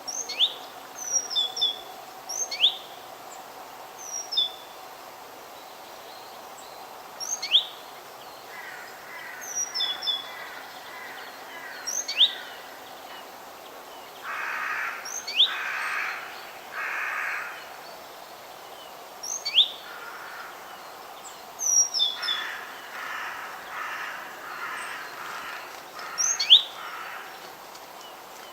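Forest birds calling over a steady background hiss. Short, sharp whistled chirps come every second or two. In the middle and again near the end come stretches of harsher, buzzy calling.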